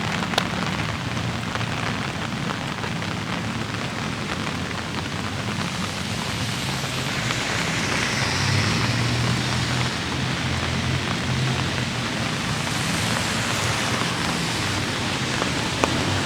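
Steady light rain falling and pattering on surfaces, an even hiss with a low rumble underneath and a few single sharp drips or ticks.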